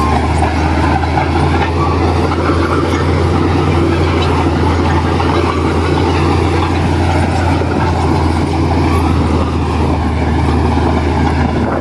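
Heavy diesel engine of earthmoving machinery running steadily: a loud, even low drone that holds its pitch throughout.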